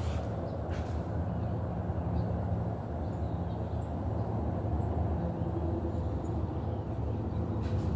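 Steady low outdoor rumble, with a few faint, short high chirps.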